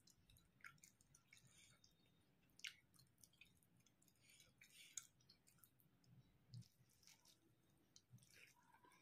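Faint chewing of rice and curry, with scattered wet mouth clicks and smacks.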